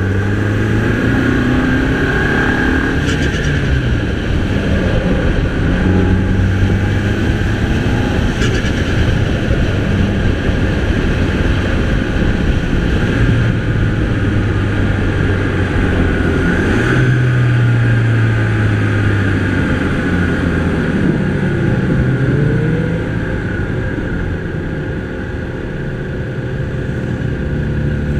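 Mini Cooper's 2.0-litre turbocharged four-cylinder engine pulling hard and easing off through a run of bends, its revs repeatedly rising and falling over steady road noise, with a high whine running throughout. It settles a little quieter a few seconds before the end.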